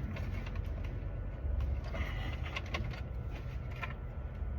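Low steady hum, a little louder after about a second and a half, with a few light clicks as a key blank is clamped down in a key-cutting machine's vise.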